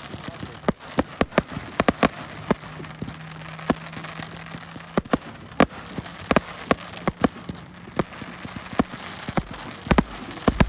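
Firework display shells bursting overhead: a rapid, irregular run of sharp bangs and crackling reports, dozens in a few seconds, over a steady hiss.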